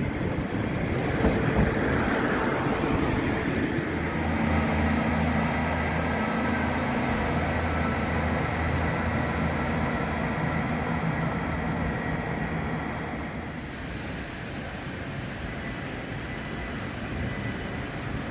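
A train running through the station. A steady low drone with held tones sets in about four seconds in and gives way, about thirteen seconds in, to a quieter, steady hiss.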